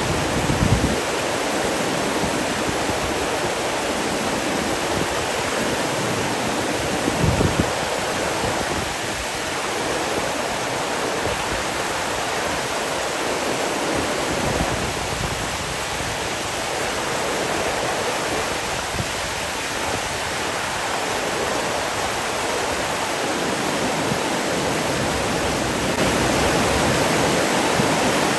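Running water, a steady dense rush like a stream or waterfall. Two brief low thumps break through, near the start and about seven seconds in.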